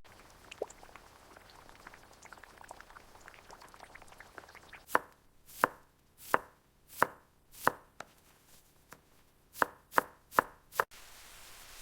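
A knife chopping food on a cutting board: nine sharp, even strokes that begin about five seconds in, five slow ones and then, after a short pause, four quicker ones, before the sound cuts off abruptly. Before the chopping there is only a faint crackle.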